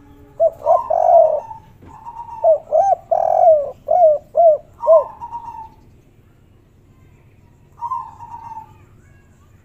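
Spotted dove (tekukur, derkuku) cooing in the 'kuk 3' call type: a run of short coos, each rising and falling in pitch, through the first half. A shorter coo follows near the end.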